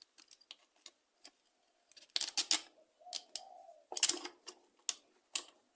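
Quiet at first, then a run of sharp clicks and light knocks as small plastic and metal parts of a leaf blower's carburettor and air filter assembly are handled and set in place, the loudest about four seconds in.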